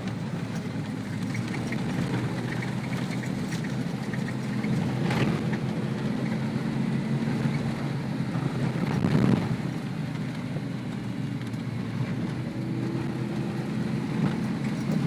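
Ford Bronco prerunner driving a rough dirt trail: a steady engine drone with rattles and knocks from the bumps, and a harder jolt about nine seconds in.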